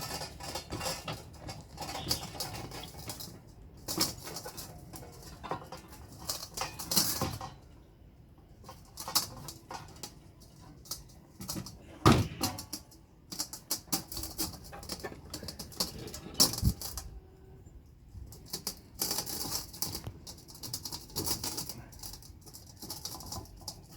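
Knife cutting and scraping through the packed brood comb and honey pots of a native stingless bee hive, heard as irregular clicks and scrapes. There is a sharp knock about halfway through and another a few seconds later.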